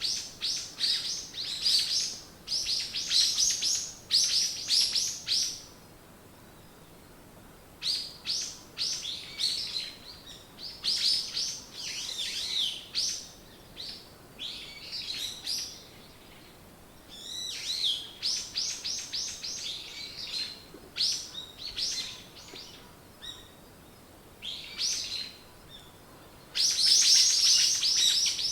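Songbirds chirping in quick runs of high, repeated notes, in bouts of a few seconds with short pauses between, the loudest run starting near the end.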